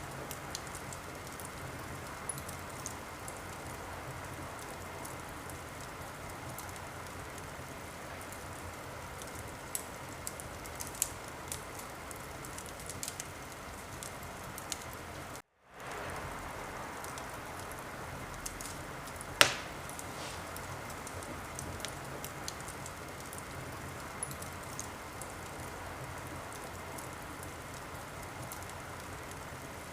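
Wood fire crackling in a fireplace: a steady hiss of burning with scattered small pops, and one loud, sharp crack about two-thirds of the way through. The sound cuts out completely for a moment just past the middle.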